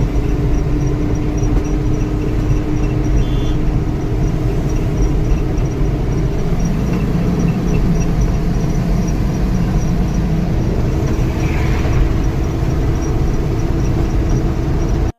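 Truck on the move: a steady low rumble of engine and road noise.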